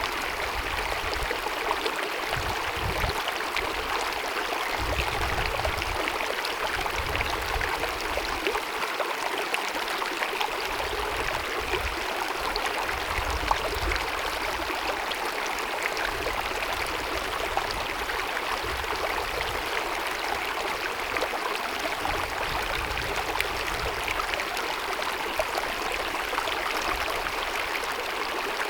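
Small glacier-fed mountain meadow stream cascading and babbling: a steady rush of running water, with a low rumble that comes and goes every few seconds.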